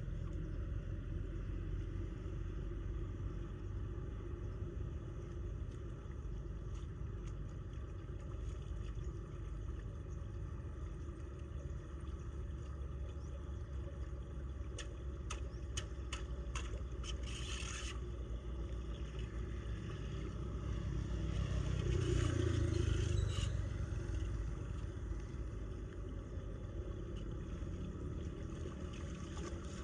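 Floodwater draining down a storm drain with a steady low rumble. A run of short clicks and scrapes comes about halfway through, and the rumble swells louder a little later.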